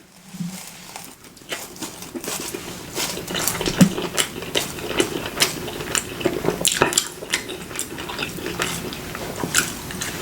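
Close-up eating sounds: irregular biting and chewing with wet mouth clicks and smacks.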